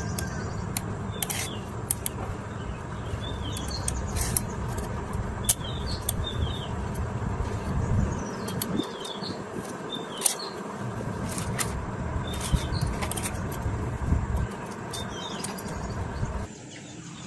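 Small birds chirping again and again over a steady low rumble, with scattered sharp clicks; the rumble eases off near the end.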